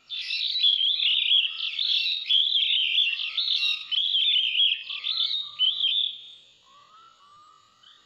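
Loud songbird song: a rapid, continuous warbling that starts abruptly and stops about six seconds in. Fainter short rising calls repeat underneath it.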